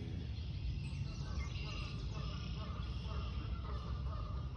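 Wild birds calling and chirping faintly over a steady low rumble of outdoor background noise.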